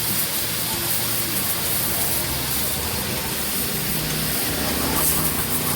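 Pressure washer spraying water in a steady hiss, with a low steady hum under it.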